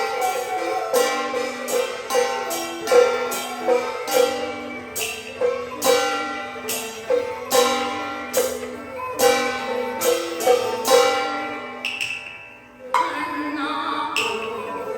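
Beiguan ensemble playing an instrumental passage of Fulu opera accompaniment: melodic instruments over a steady run of percussion strikes. The music drops away briefly near the end, then picks up again.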